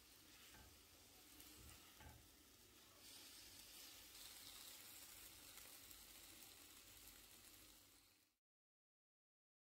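Stir-fried vegetables (broccoli, tomato, onion) sizzling faintly in a pan while being stirred, with two light knocks in the first couple of seconds. The sizzle grows a little louder about three seconds in and cuts off shortly before the end.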